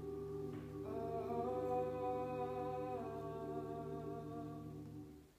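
All-male a cappella group holding a sustained closing chord, with the upper voices moving over a steady low bass part. The chord fades and is released just before the end.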